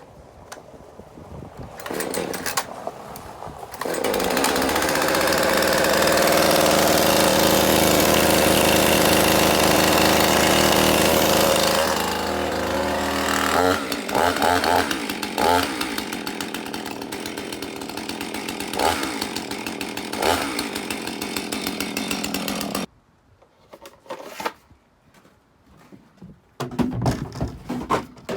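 Husqvarna Rancher two-stroke chainsaw starting up about four seconds in and running fast and steady. About halfway through it settles to a lower idle, then cuts off suddenly, leaving a few faint knocks.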